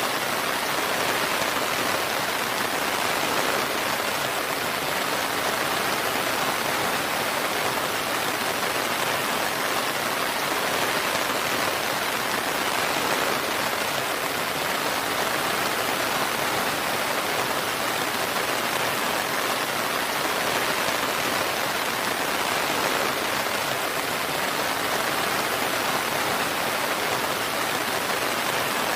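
Steady rain falling, an even hiss of many drops with no thunder or other events.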